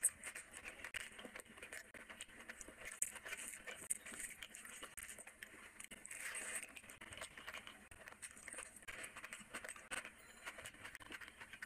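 Chewing and lip-smacking as a person eats rice and curry by hand: a dense, irregular run of small wet clicks and smacks.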